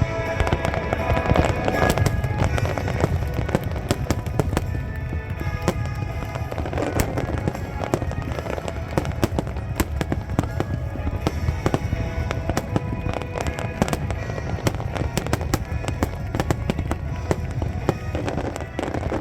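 Fireworks going off in rapid succession: a dense run of sharp cracks and bangs over a continuous low rumble of booms, with music playing underneath.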